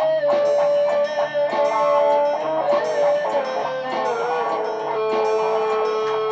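Electric guitar music built from loops: a long sustained lead note that slides down a little past halfway and settles on a lower held note, over a repeating low bass line and rhythm part.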